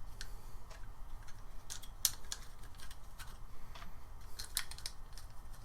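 Scissors snipping in short, irregular cuts, heard as scattered sharp clicks, with a cluster about two seconds in and another near the end.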